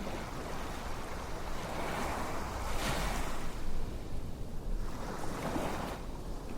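A soft rushing noise that swells and fades twice, like water washing in and drawing back.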